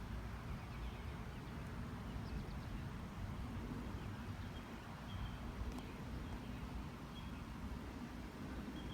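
Steady low outdoor rumble, with a few faint, short high chirps in the second half; no woodpecker drumming.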